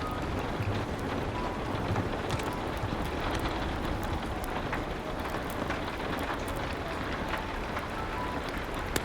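Steady rain with scattered sharp clicks and crackles.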